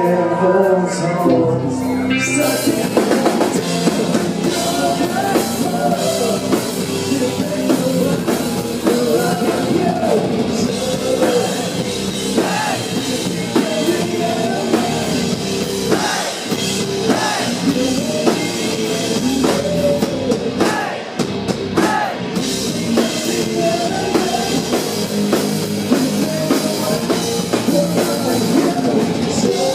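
Live rock band playing loud with drums and a male lead singer. The full band, cymbals and distorted guitars, comes in hard about two seconds in.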